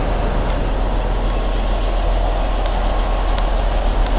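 Scania R500 truck's V8 diesel engine running steadily with a deep, even drone.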